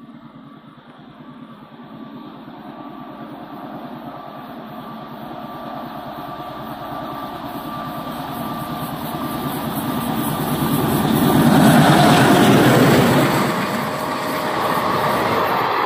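Indian Railways InterCity express train approaching at speed and passing close by. It grows steadily louder, is loudest as the locomotive goes by about twelve seconds in, then eases a little as the coaches roll past with their wheels running over the rails.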